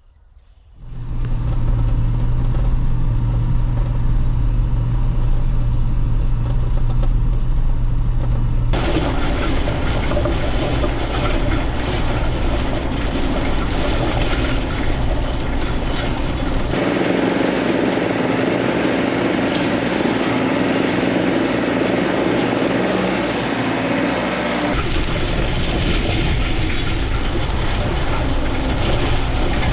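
Bobcat T66 track loader's diesel engine coming up to a steady working run about a second in. From about nine seconds in it is joined by a noisier metallic rattle and scrape of the loader and its chain harrow dragging storm debris across the field.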